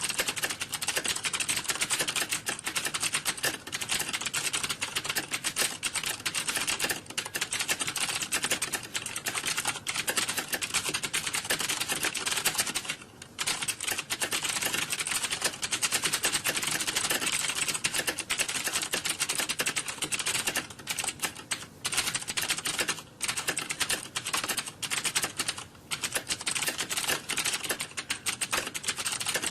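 Fast computer keyboard typing, keystrokes clattering almost without a break, with a short pause about 13 seconds in.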